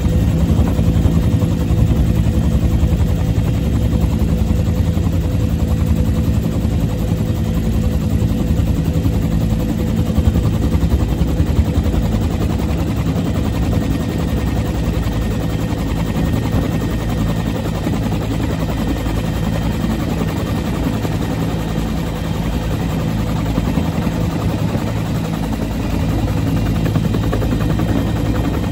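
Bell UH-1 Huey helicopter's turboshaft engine and two-bladed main rotor running steadily, the blades beating in a fast, even throb under a constant engine tone.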